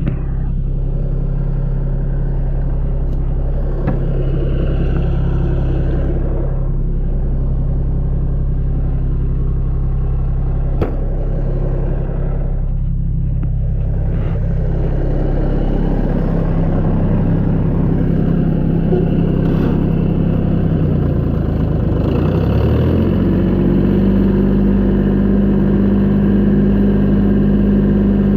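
Vehicle engine running steadily up close. About three quarters of the way through its speed shifts, and it settles into a higher, throbbing note.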